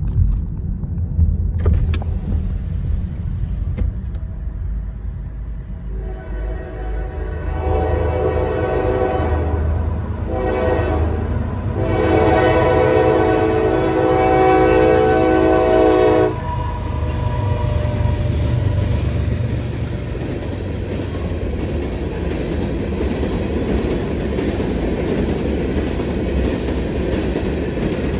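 CSX freight locomotive's air horn sounding a chord in several blasts, the last one long and loudest, over the low rumble of the train: the horn signal for the road crossing. After the horn stops about 16 seconds in, the low rumble of the passing train carries on.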